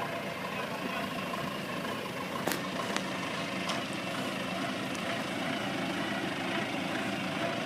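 Engine running steadily at idle, with a few sharp clicks or knocks about two and a half to four seconds in.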